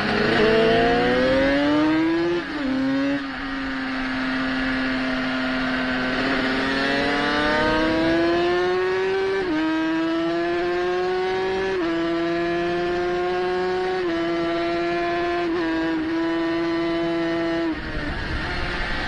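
A 350 cc racing motorcycle engine revving hard under load, heard from on board over wind noise: its pitch climbs, falls sharply about two and a half seconds in, then climbs again through a run of brief dips that sound like gear changes, before the throttle closes near the end.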